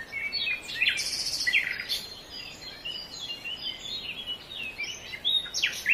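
Small birds chirping and twittering: a quick run of short, high calls and trills, one after another.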